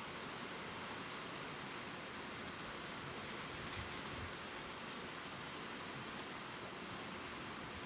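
Gentle rain falling steadily on leaves, a soft even hiss with occasional faint drop ticks.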